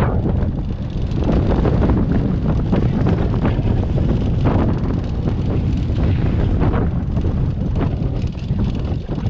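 Wind buffeting the microphone: a loud, gusting rumble that rises and falls unevenly.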